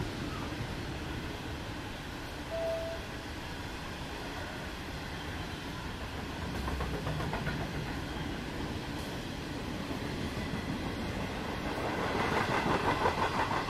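Freight trains passing: a long line of hopper wagons rolling by with a steady wheel-on-rail rumble. A short squeal comes about two and a half seconds in. Near the end the wheels clatter rhythmically over the rail joints and grow louder.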